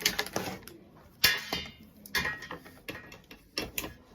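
Clicks and light knocks of hands handling a set-top box circuit board and its power connection while switching it on: a handful of sharp clicks at irregular intervals, the loudest a little over a second in.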